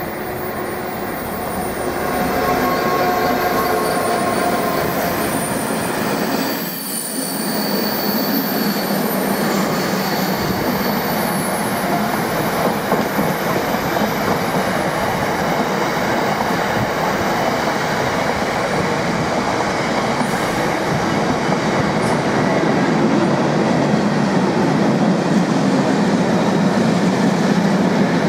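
A long freight train of hopper wagons running past close by: a steady rush and rumble of steel wheels on the rails, getting a little louder near the end. Over the first several seconds a Class 166 diesel multiple unit at the platform is heard instead.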